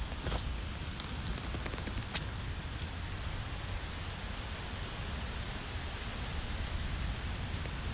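Steady rain falling, a continuous hiss with scattered drops ticking, one sharper tick about two seconds in.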